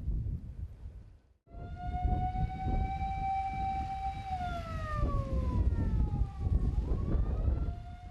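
An emergency-vehicle siren wails over rumbling wind and traffic noise. It starts suddenly, holds one steady pitch, slides down about halfway through, and rises again near the end.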